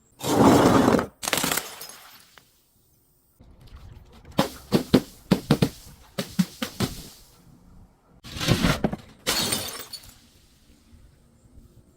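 Glass bottles shattering and the broken glass crunching. There is a loud crash just after the start, a rapid run of sharp cracks a few seconds in, and two more crashes near the end.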